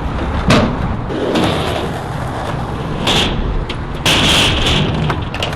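Skateboard wheels rolling and scraping on concrete, with a sharp clack about half a second in and several brief hissing scrapes, the longest near the end.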